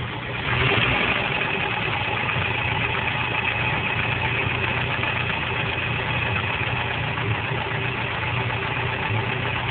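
Renault 4L four-cylinder engine idling with its rocker cover off, so the rockers and valvetrain run uncovered. It gets a little louder about half a second in, then runs steadily.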